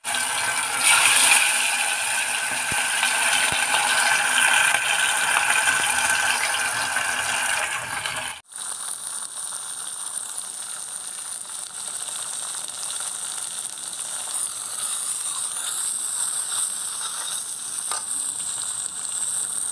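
Chicken drumsticks frying in hot oil in a steel pot, a steady sizzle. About eight seconds in it cuts suddenly to a quieter, steady hiss.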